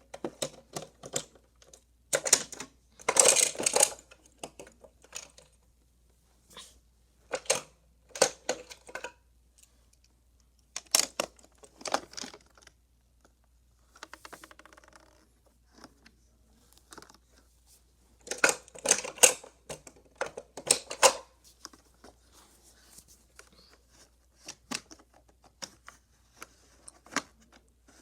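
Die-cast toy cars clattering against a plastic playset track in short bursts of clicks and rattles, with a quieter, steadier rattle about halfway through.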